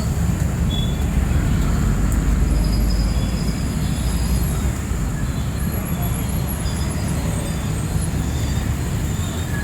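Street traffic: a steady low engine rumble that swells as a vehicle passes close, loudest about one to four seconds in.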